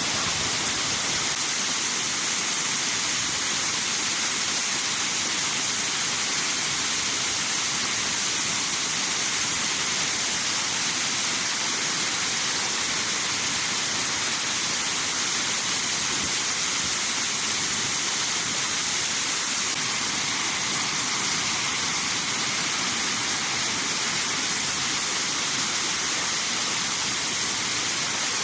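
Waterfall rushing: a steady, unbroken hiss of falling water that stays level throughout.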